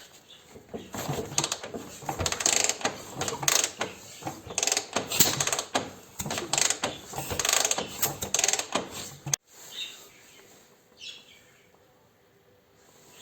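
Irregular mechanical clicking and metal clatter from hand tools at work on the motorcycle's engine. It cuts off suddenly about nine seconds in.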